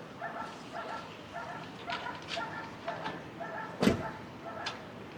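An animal giving a string of short, high yelps, several a second. There is a single sharp knock about four seconds in.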